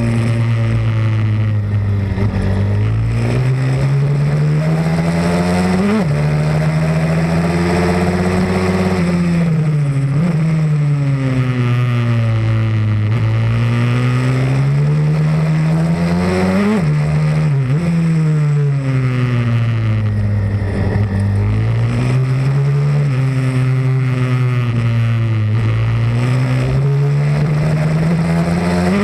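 Pit bike engine running hard without a break, its revs climbing and falling again and again as it accelerates and backs off, with a few sudden drops in revs.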